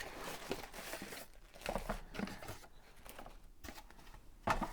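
Packaging rustling and crinkling as parts are handled and taken out of a box, in irregular short bursts with a louder one near the end.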